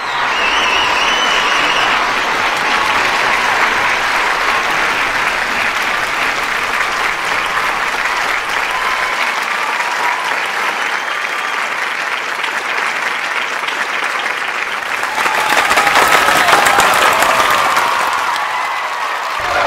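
A large audience applauding steadily, with scattered cheers. The applause swells louder about fifteen seconds in, with more shouting voices, then eases off near the end.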